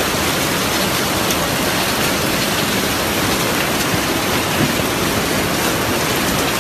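Heavy rain pouring down onto hard surfaces: a loud, steady, dense hiss with a few scattered sharp ticks.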